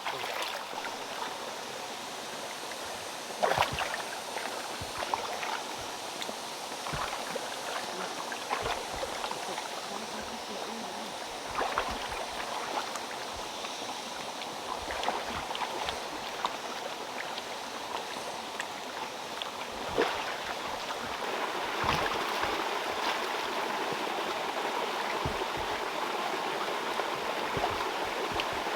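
Water running steadily, with occasional sharp knocks over it; the flow grows a little louder about two-thirds of the way through.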